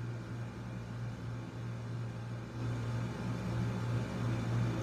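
A steady low hum under faint, even background noise.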